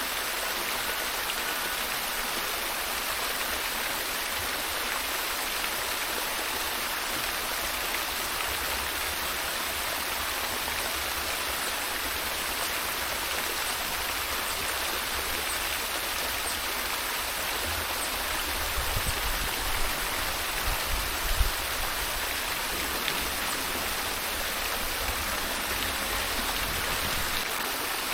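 Steady rush of a flowing stream, with a few low thumps about two-thirds of the way through.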